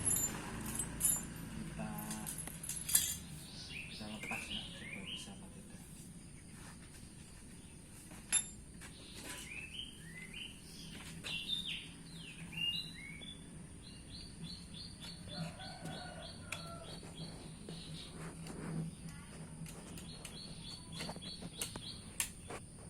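Small birds chirping in short bouts of quick rising and falling notes, with a fast run of repeated high notes in the middle, over a steady high-pitched tone. A few sharp knocks and clicks stand out, the loudest near the start and near the end.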